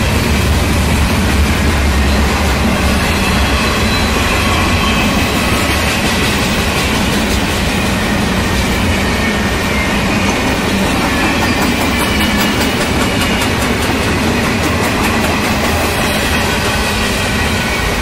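Empty double-stack well cars of a freight train rolling past at speed: a steady rumble of steel wheels on rail, with fine clicking from the wheels around the middle and a faint high ringing.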